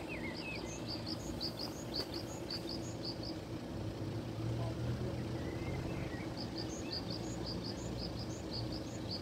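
Small songbird singing two runs of quick, high, repeated two-note phrases with a pause of a few seconds between them, over a steady low background rumble.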